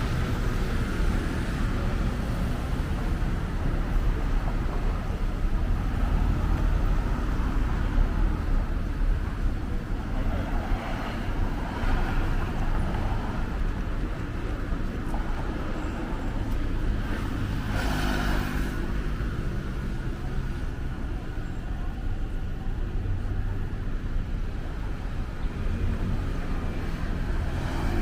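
City road traffic: cars passing on a street, a steady low rumble of engines and tyres, with one brief louder hiss of a vehicle going by about two-thirds of the way through.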